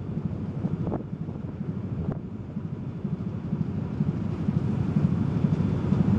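Car ferry under way: a steady low rumble from the ship's engines and hull, with wind buffeting the microphone.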